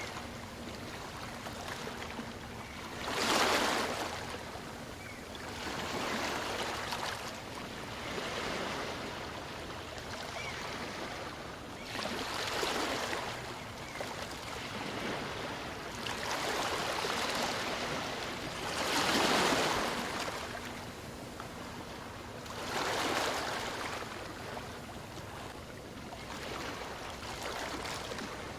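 Small waves from a calm sea breaking gently on a beach and washing back, a swell of surf every few seconds over a steady wash, the biggest about 3 and 19 seconds in.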